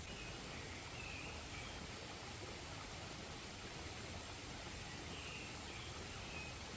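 Steady outdoor background noise with a few faint bird chirps, one group about a second in and another around five seconds in.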